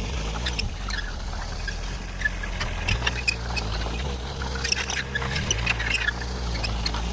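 Komatsu mini excavator's engine running steadily while it works the crushed concrete rock piles, with frequent short squeaks and clicks over the engine.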